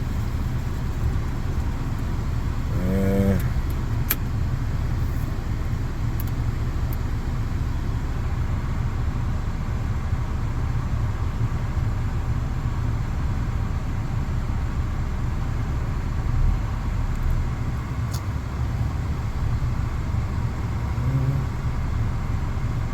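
2004 Honda Accord engine idling steadily, running smoothly again on replacement ignition coils after a rough-running misfire and no-start.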